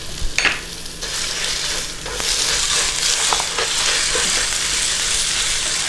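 Ground chicken sizzling in hot oil in a nonstick skillet while a spatula stirs and breaks it up, with a few light clicks of the spatula against the pan. The sizzle grows louder about two seconds in.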